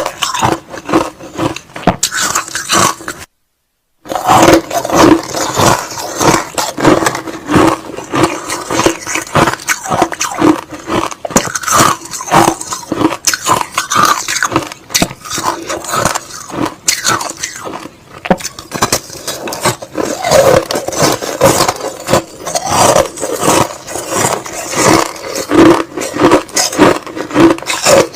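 Close-up crunching and chewing of crushed ice slush, dense crackling bites one after another, with a brief dead gap a few seconds in.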